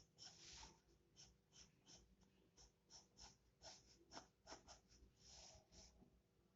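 Faint scratching of an HB pencil on paper: a string of short, quick strokes, with a couple of longer drawn-out strokes, one near the start and one near the end.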